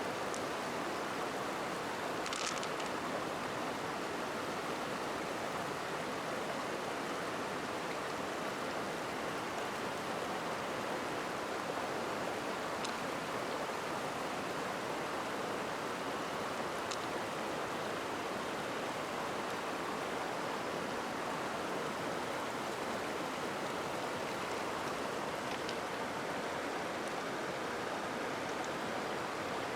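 Steady rushing of a flowing stream, with a few faint clicks about two and a half seconds in and again later.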